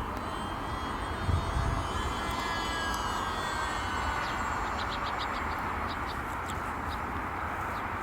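E-flite Delta Ray One RC airplane's electric motor and propeller whining in flight, its pitch gliding up and down, over a steady low rumble.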